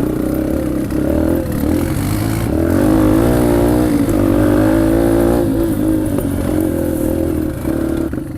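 Yamaha TT-R125LE dirt bike's single-cylinder four-stroke engine running under a rider on a rocky trail, revving up about three seconds in and easing off again near six seconds.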